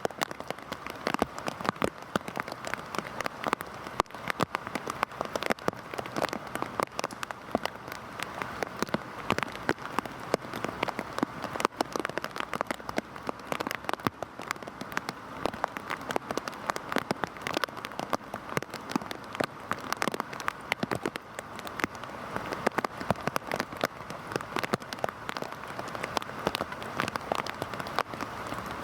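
Heavy rain falling steadily, dense with sharp individual drop hits on a surface.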